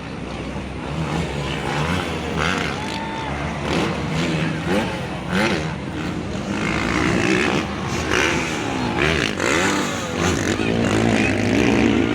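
Motocross dirt bike engines revving up and easing off again and again, more than one bike at a time.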